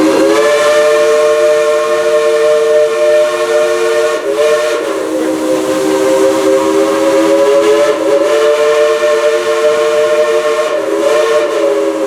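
Steam locomotive No. 70, a 1938 Baldwin engine, blowing its chime whistle: one long loud chord of several notes held without a break, sagging briefly in pitch about four and eight seconds in and again near the end.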